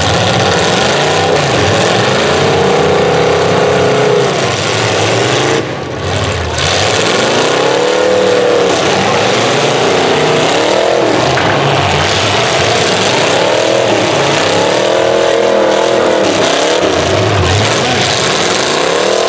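Demolition derby cars' engines revving hard in the mud, the pitch climbing and falling back again and again as the drivers work the throttle. Loud throughout, with a short dip about six seconds in.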